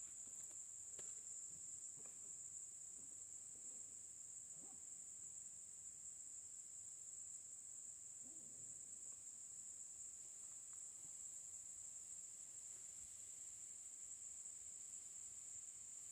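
Faint chorus of insects: one unbroken high-pitched buzz with no pauses, with a few soft rustles underneath.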